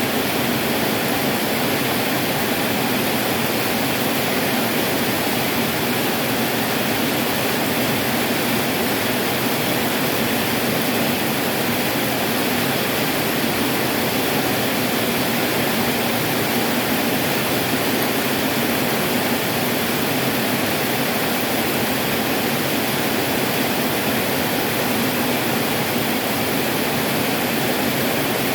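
Heavy tropical downpour: rain pouring in a loud, steady, even hiss.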